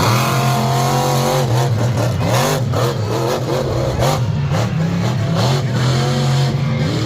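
Big competition truck engine revving hard, its pitch rising and falling several times as the throttle is worked.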